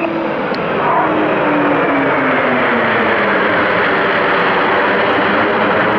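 Eurofighter Typhoon jet passing: a loud, steady rushing noise with a whine that falls in pitch over the first three seconds as it goes by.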